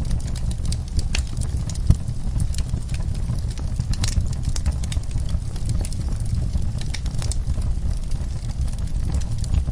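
Wood fire burning, with irregular sharp crackles and pops from the logs over a steady low rumble.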